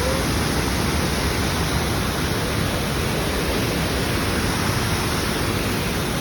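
Steady, even rush of water falling over a waterfall.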